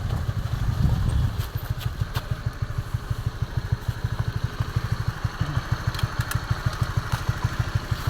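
Motorcycle engine running, dropping about a second and a half in to a steady idle with an even low putter.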